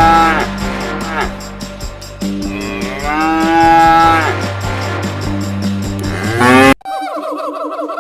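Cow mooing: long calls that rise and then fall in pitch, the next one starting about two seconds in, with shorter rising calls between. Near the end it cuts off suddenly into a different, higher chirping animal sound.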